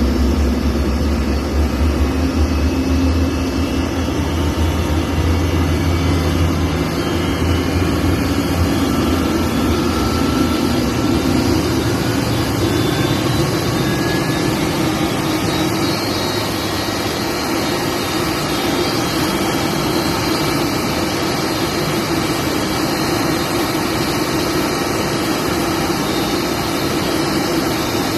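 Steady engine drone with a deep hum that is strongest for the first seven seconds and then eases, over faint high whistling tones that glide slowly in pitch.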